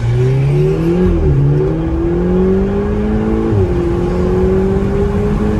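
Audi TT's engine accelerating hard through the gears, heard from inside the cabin: the engine note climbs in pitch, drops at an upshift about a second in and again at a second upshift about three and a half seconds in, then climbs again.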